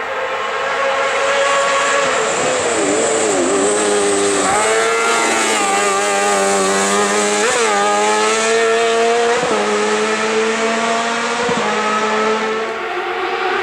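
Hill-climb race car engine driven hard, its pitch dropping and climbing again through gear changes and lifts off the throttle, with sharp revving spikes about seven and a half and nine and a half seconds in.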